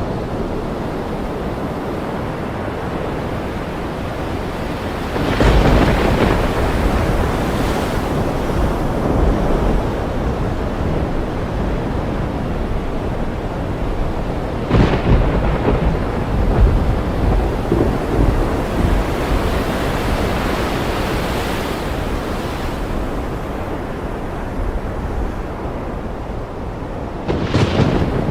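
Thunderstorm over ocean surf: a steady wash of waves and rain, with thunder swelling in three times, about five, fifteen and twenty-seven seconds in. The first roll is the strongest and deepest.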